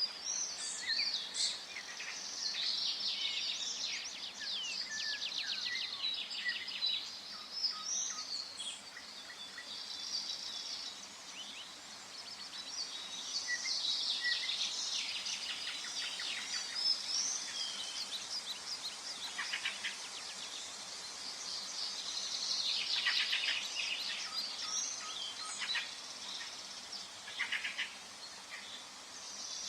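Several songbirds singing and calling at once, with rapid trills, chirps and whistles overlapping throughout, over a faint steady hiss of forest background.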